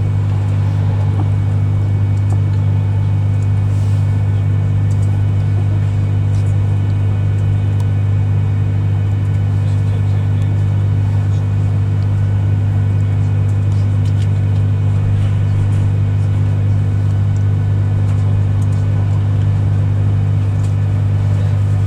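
Steady low rumble and hum heard inside a carriage of a Class 390 Pendolino, an electric train, as it runs along the line.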